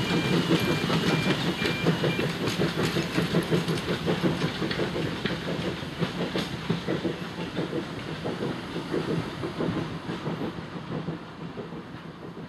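Steam-hauled train of passenger coaches passing, its wheels clattering rhythmically over the rail joints and fading away as it moves off. A pulsing high tone stops about two seconds in.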